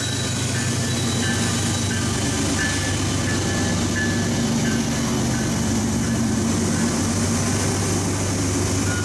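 Diesel freight train passing: the locomotives' engines rumble by, then the covered hopper cars roll past with steady wheel and rail noise.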